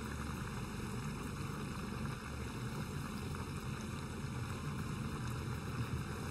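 Hollowed-out zucchini frying in hot oil in a pan, a steady sizzle.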